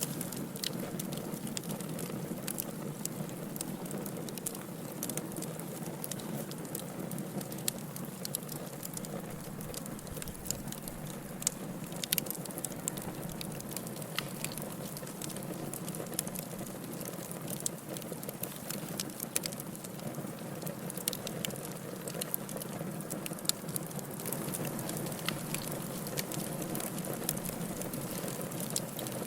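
Firewood burning in a fireplace: a steady low rumble of flames with frequent sharp crackles and pops at irregular moments.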